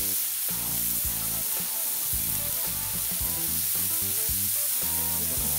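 Meat and vegetables sizzling steadily on a hot iron teppanyaki griddle, with background music underneath.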